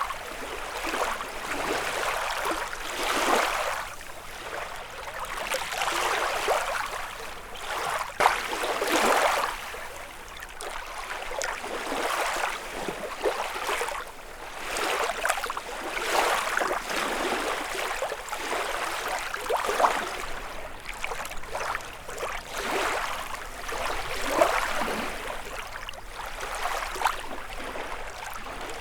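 Small lake waves lapping and breaking on the shore, surging every second or two, with an occasional sharper splash.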